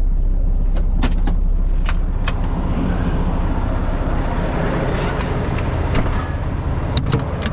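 Semi truck's diesel engine idling steadily with a low rumble, with a few light clicks and knocks over it.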